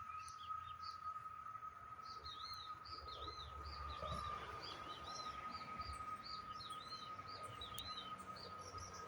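A bird calling in a rapid series of short, arched chirps, starting about two seconds in and stopping near the end, over a steady high-pitched tone.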